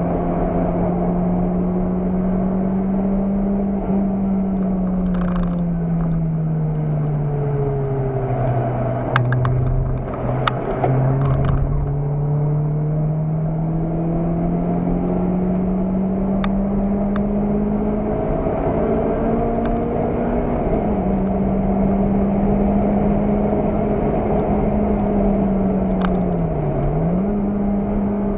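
Car engine heard from inside the cabin while lapping a circuit, running hard at a steady pitch, then the note falls as the car slows for a corner, with a few sharp knocks, before climbing again. The pitch steps down about two-thirds of the way through and dips briefly near the end.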